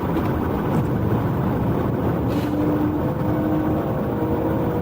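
Police patrol car driving, a steady engine and road rumble with a faint steady hum.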